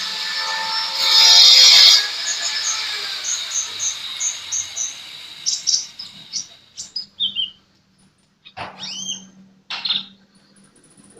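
Sunbird (the small bird Indonesian keepers call 'kolibri') calling: a run of short, high chirps about twice a second, then sharp high notes and quick downward-sliding whistles that come more sparsely toward the end. A loud rushing noise fills the first two seconds.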